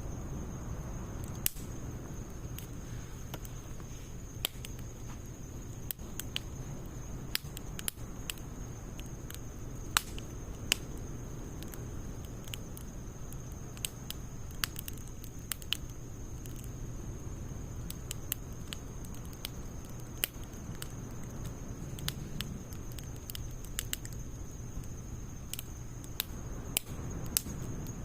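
Wood fire of logs and pine needles crackling, with sharp pops scattered irregularly over a steady low rumble of burning.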